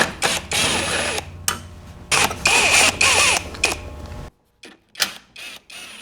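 A small handheld power tool, such as a cordless drill/driver, running in two bursts of about a second each while fasteners come off the engine. A few short clicks follow, then the sound cuts out suddenly.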